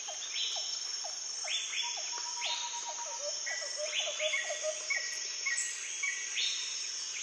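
Tropical forest ambience: a steady high-pitched insect drone with many short, repeated bird calls and chirps over it.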